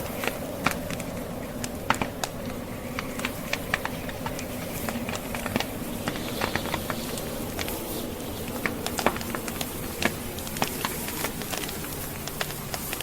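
Burning logs in a fireplace crackling, with irregular sharp pops, over a steady low hum of blizzard wind.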